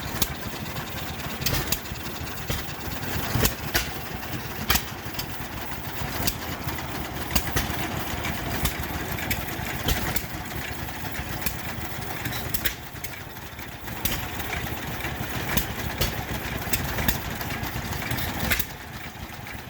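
Small engine running with sharp, uneven pops about every second or two over a steady background of machinery.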